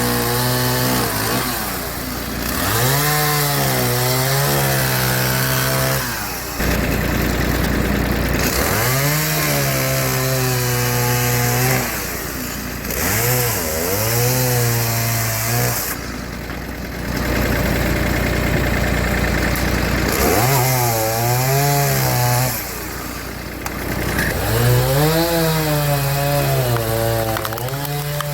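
Chainsaw cutting logs. The engine is pulled down in pitch under load and revs back up again and again, with stretches of steady full-throttle running in between.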